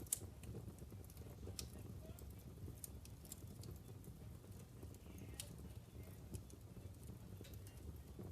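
Wood fire burning in a fireplace: logs crackling with scattered sharp pops over a low steady rumble of flames, the loudest pop just at the start.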